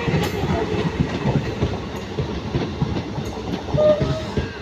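Passenger train rolling into a station, its wheels clicking over the rail joints in a quick, uneven rhythm over a steady rumble.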